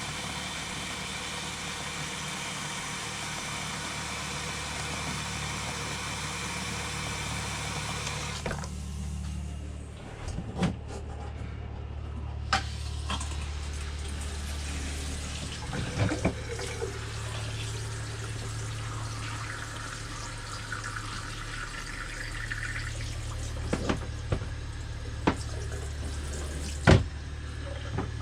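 Water running hard from a travel trailer's tap as the water lines are flushed of antifreeze, shut off about eight seconds in. After that, a low steady hum and a few sharp knocks.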